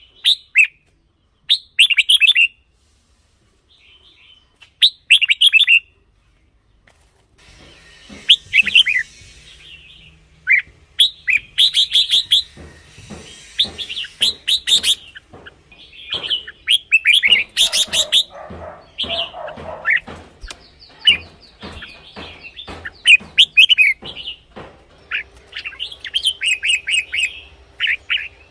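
Red-whiskered bulbuls singing short, bright warbled phrases. For the first few seconds the phrases come singly with quiet gaps between them. From about seven seconds in the singing becomes much denser and almost continuous, over faint background noise.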